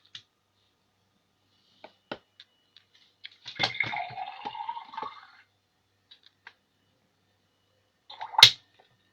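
Fisher-Price toy teapot playing its electronic pouring, liquid-splashing sound effect for about two seconds, with small plastic clicks from handling before it and one sharp knock near the end.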